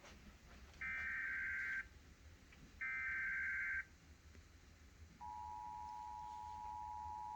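Emergency Alert System SAME header data bursts: two one-second bursts of shrill digital warbling, about a second apart. From about five seconds in comes the steady two-tone EAS attention signal, which marks the start of a tornado warning broadcast.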